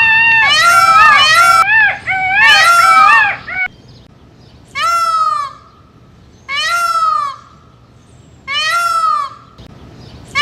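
Peacock calling: loud calls that rise and fall in pitch, several overlapping in the first three and a half seconds, then single calls under a second long about every two seconds.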